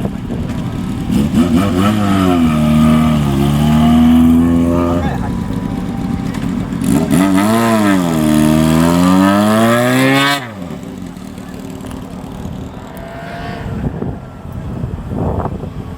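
Motorcycle engines revving as bikes ride in one after another, the exhaust note rising and falling twice. The sound cuts off suddenly about ten seconds in, and quieter engine running follows.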